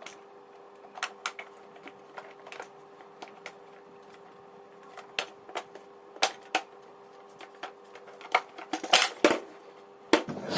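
Scattered sharp clicks and knocks of a Toshiba vacuum cleaner's parts being handled and fitted together, with a quick run of louder knocks near the end, over a faint steady hum.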